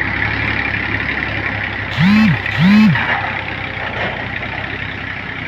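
Tractor engine running steadily, with two short, loud tones about two seconds in, each rising and then falling in pitch.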